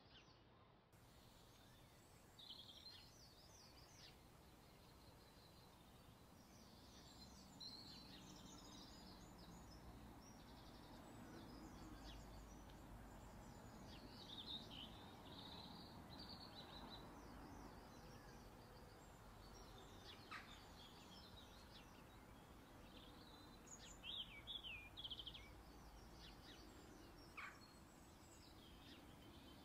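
Faint bird chirps and twitters, scattered irregularly throughout over a low, steady background noise.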